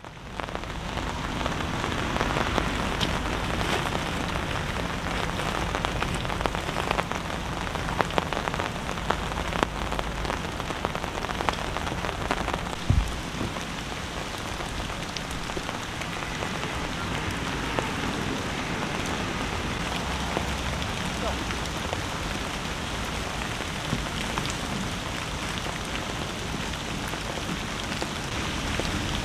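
Heavy rain falling steadily, with many close drops ticking sharply. One dull thump a little before halfway.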